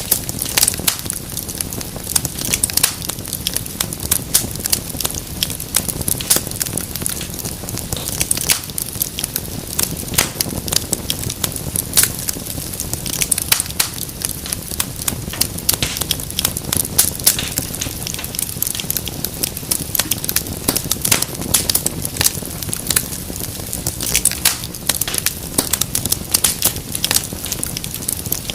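Wood fire crackling and popping: dense, irregular sharp snaps over a low, steady rumble of flames.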